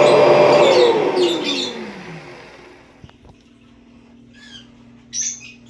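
1991 Kirby Generation 3 upright vacuum cleaner running, then switched off under a second in, its motor whine falling in pitch as it winds down over about two seconds. A couple of faint clicks follow, then short bird chirps near the end.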